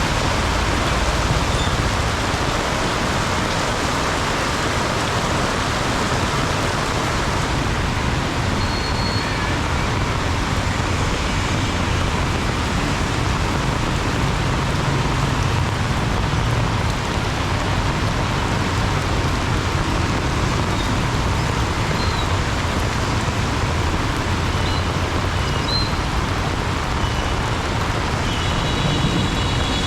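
Heavy rain pouring steadily, mixed with road traffic passing through it. A brief high-pitched tone sounds near the end.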